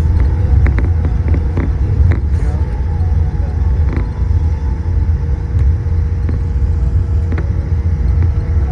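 Steady low rumble inside the cabin of a Boeing 787-8 on the ground after landing, with a constant hum and a few faint clicks.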